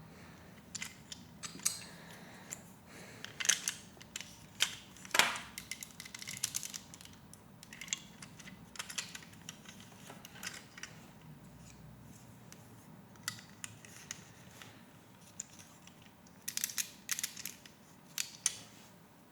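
Plastic Lego Technic pieces clicking and rattling as they are handled and pressed together, in scattered bursts of sharp clicks with quieter gaps between.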